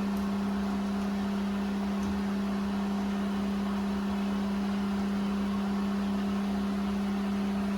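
Steady machine hum: a constant low tone with a fainter higher one above it, over a light even hiss.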